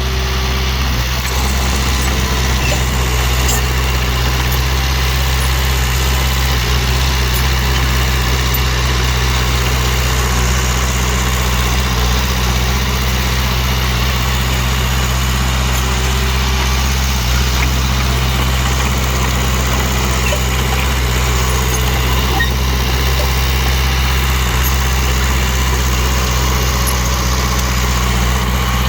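Heavy dump truck's engine running steadily at an unchanging speed.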